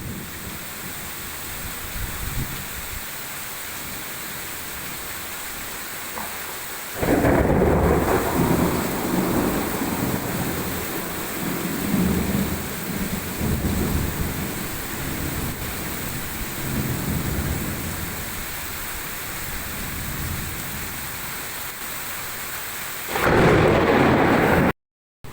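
Heavy rain falling steadily. About seven seconds in, a loud rumble of thunder breaks out and rolls on, rising and falling, for some fifteen seconds. Another loud peal comes near the end and is cut off abruptly.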